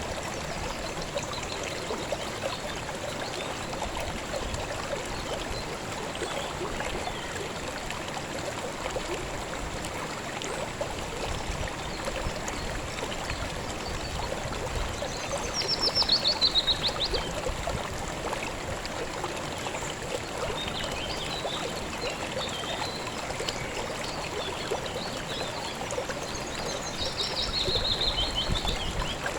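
A stream running steadily over rocks, with a small bird's fast descending trill twice, the louder one about halfway through and another near the end, and a few soft chirps between.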